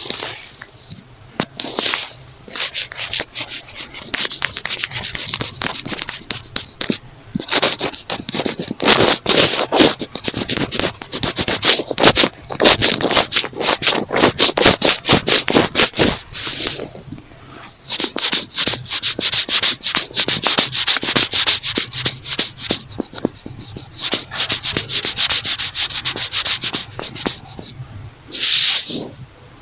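Fingernails scratching a notebook cover close to the microphone in fast, continuous strokes, broken by a few short pauses.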